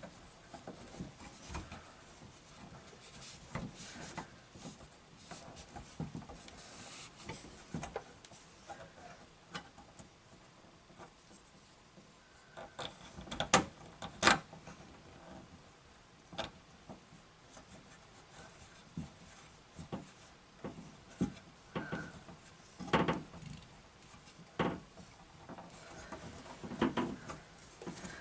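Intermittent small clicks, taps and rubbing from hand tools and electrical wire being handled during wiring work, with two sharper clicks about halfway through.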